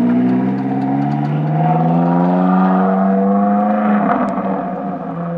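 Ferrari 458 Challenge race car's V8 engine pulling away at low speed. Its note rises slowly in pitch for about four seconds, then drops back and runs on more steadily.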